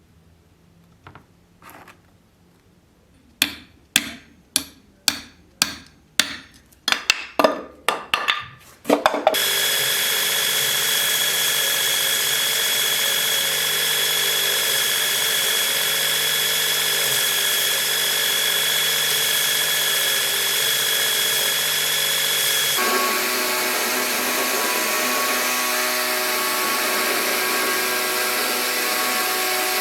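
A hammer strikes metal about a dozen times, ringing, the blows coming faster. Then a power tool starts and runs steadily with a high whine. Its tone changes abruptly about two-thirds of the way through, as if the load changes.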